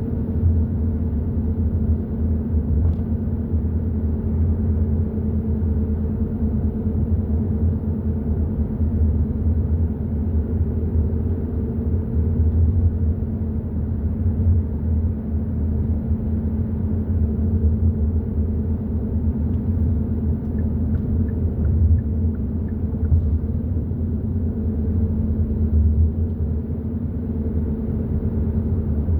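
Hyundai i30 N Line driving at a steady speed: a continuous low rumble of road and engine noise with a steady engine hum.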